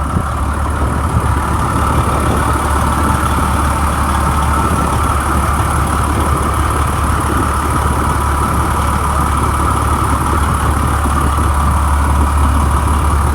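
Detroit Diesel Series 60 inline-six diesel engine of a 1998 Pierce Quantum fire truck idling steadily, in good running order by the seller's account.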